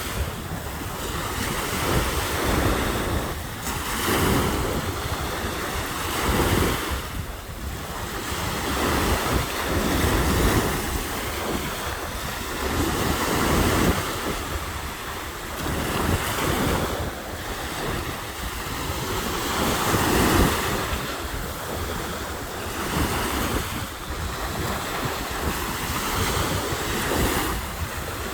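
Waves breaking and washing on a beach, a steady surge that swells and eases every few seconds, with wind buffeting the microphone.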